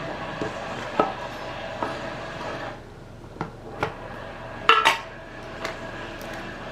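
Hard objects clinking and knocking as they are handled and set down: about six separate knocks, the loudest a quick double clatter past the middle.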